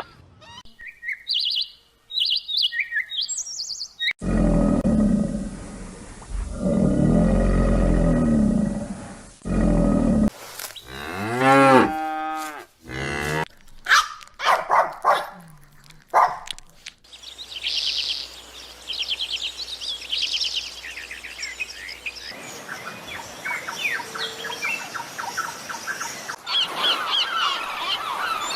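A run of different animal calls one after another: short bird chirps, then deep, drawn-out bellowing calls, then sliding pitched calls, and from about halfway on a busy stretch of bird chirping.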